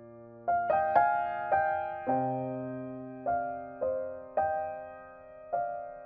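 Background music: slow, gentle solo piano, single notes and chords struck every half second to a second and left to ring out.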